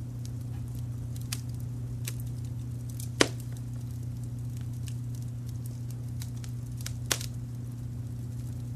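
Wood fire crackling: scattered small snaps and pops, with two sharp, louder pops about three seconds in and again about seven seconds in, over a steady low rumble of brown noise.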